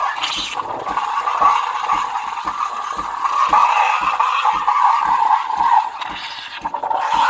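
DeLonghi Magnifica's steam wand hissing steadily as it froths milk in a metal jug, with a regular low ticking about three times a second underneath.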